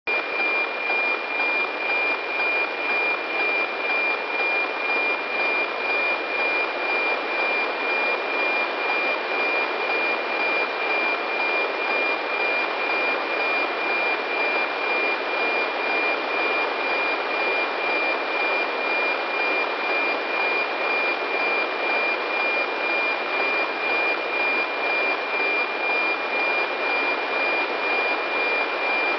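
NOAA-15 weather satellite APT signal received by radio: a steady 2.4 kHz whistle over static hiss, pulsing regularly about twice a second with the scan lines of the picture being sent.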